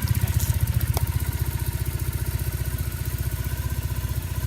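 Triumph Bonneville parallel-twin engine idling steadily with an even, low pulsing beat, run up after being refilled with fresh oil. A faint click sounds about a second in.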